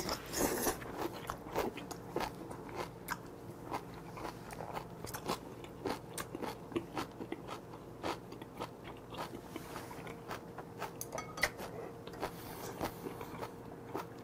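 Close-miked chewing of a mouthful of spicy octopus salad with blanched minari and crisp vegetables: a steady stream of small crunches and mouth clicks at an uneven pace.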